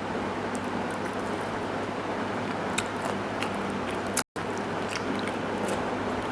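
A person chewing and eating soft rice and chicken stew, with a few small wet clicks and smacks, over a steady background hiss. The sound drops out completely for an instant a little over four seconds in.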